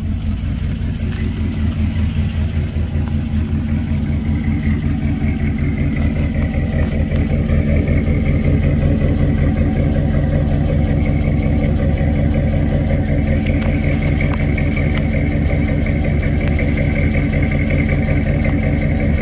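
1987 Chevrolet Caprice's engine idling steadily, growing a little louder over the first several seconds and then holding even.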